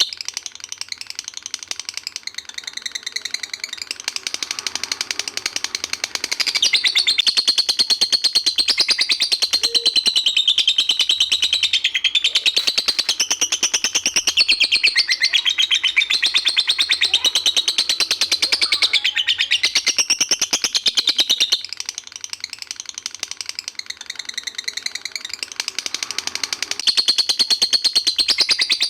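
Songbird singing a fast, unbroken chatter of rapid repeated high notes with wavering pitch, as played for tutoring competition songbirds. It swells louder about a quarter of the way in, drops back about three-quarters of the way through, and rises again near the end.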